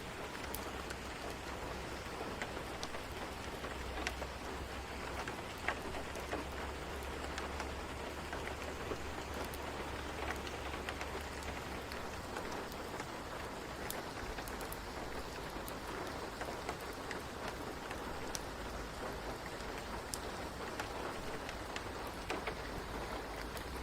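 Steady rain falling, an even hiss with scattered faint sharp ticks of drops.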